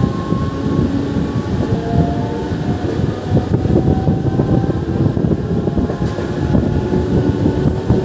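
MEMU electric passenger train running along the track: a steady rumble and clatter of the wheels, with faint whining tones that drift in pitch.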